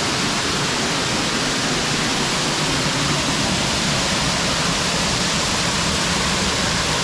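Waterfall running full after heavy rain, a loud, steady rush of falling water heard close up.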